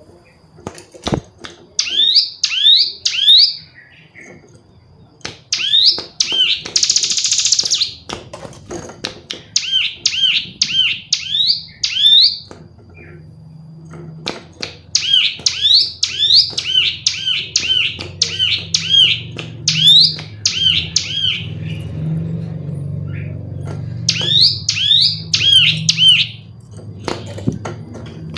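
Female ciblek gunung (prinia) calling in rapid bursts of repeated sharp chirps, about five a second, with short pauses between bursts and one brief buzzy rattle. A low hum runs underneath in the second half.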